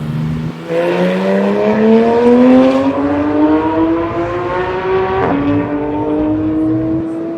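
Race car engine under hard acceleration, its pitch climbing steadily for several seconds. About five seconds in it breaks for an upshift, then pulls on at a nearly steady pitch.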